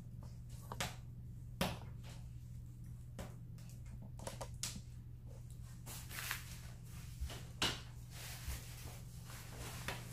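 Wood fire crackling inside a closed masonry fireplace, with irregular sharp snaps and pops over a steady low hum.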